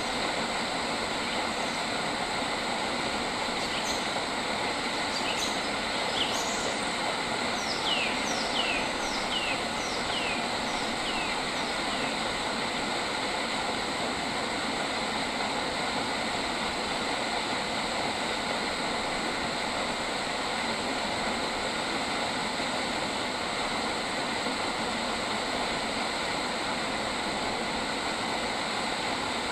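A bird calls a quick series of about eight short notes, each falling in pitch, over a few seconds a little after the start. Behind it a steady, even rushing noise fills the whole stretch.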